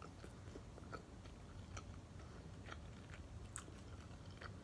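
Faint chewing of a mouthful of sushi with the mouth closed: small soft mouth clicks about once a second over a low room hum.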